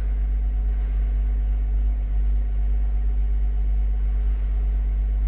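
Steady low rumble of an engine idling, with a constant hum that does not change in pitch.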